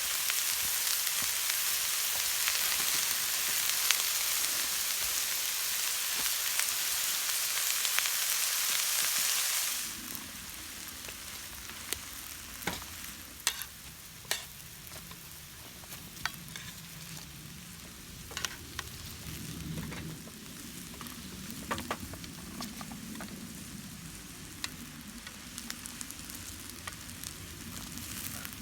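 Yakisoba frying loudly over a wood fire, an even sizzle for about ten seconds. Then a sudden change to a quieter fire crackling, with scattered sharp pops.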